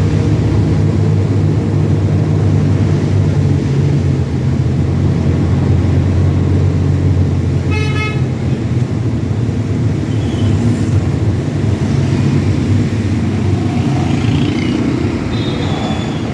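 Heavy truck engine running with road noise, a steady low drone that eases somewhat after about seven seconds. A short horn toot about eight seconds in.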